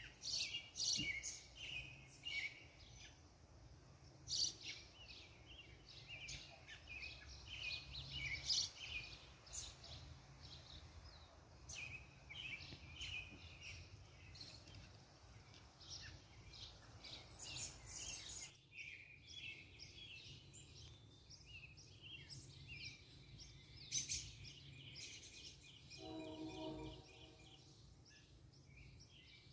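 Several wild birds chirping and singing in many short, rapid calls, over a faint low rumble that cuts off about two-thirds of the way through. A brief pitched sound lasting about a second comes near the end.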